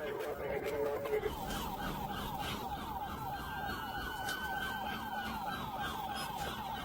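Police car siren on a pursuing cruiser in a fast yelp, with rapid repeated rising-and-falling sweeps that take over from a lower steady tone about a second in. Road noise from the vehicle at speed runs beneath it.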